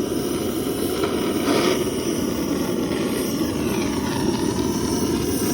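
Blowtorch flame running with a steady roar-like hiss as it heats food.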